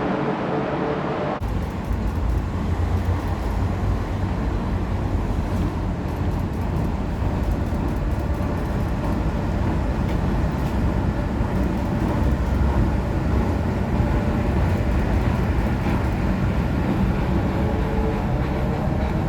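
Train running: a steady low rumble with faint clicks from the rails. The sound changes abruptly about a second in.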